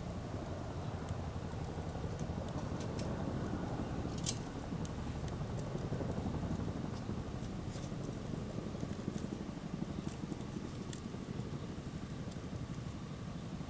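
Wood campfire burning: a steady low rush of flames with scattered sharp crackles and pops, one louder pop about four seconds in.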